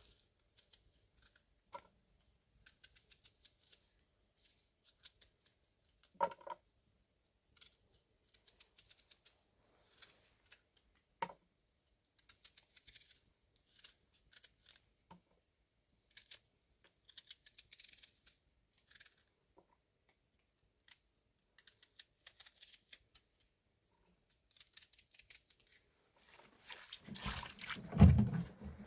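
Scattered small, crisp clicks and snips, a few a second with pauses between them, like cutting or handling something by hand. Near the end comes a louder flurry of knocks and rustling.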